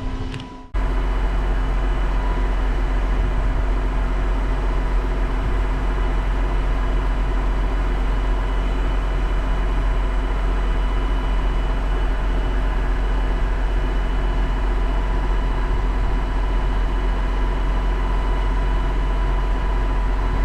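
Tractor engine running steadily at a constant speed, a low drone with a steady hum over it, while the planter's liquid system is being calibrated. It cuts in abruptly just under a second in.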